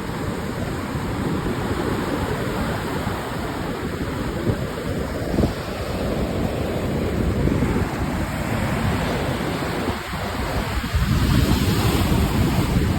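Stormy sea surf breaking and washing on the shore, with strong gusty wind buffeting the microphone. A wave surges louder about eleven seconds in.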